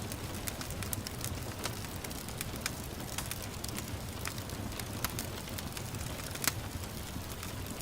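Wood fire in a fireplace crackling with frequent sharp pops, one louder pop about six and a half seconds in, over a steady hiss of gentle rain.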